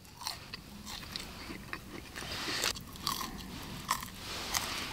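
A person chewing a double-fried french fry close to the microphone, with irregular small crunches.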